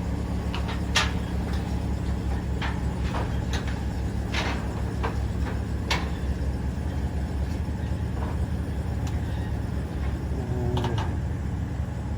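Steady low drone of a vehicle running, heard from inside the cabin, with a dozen scattered light clicks and knocks over it.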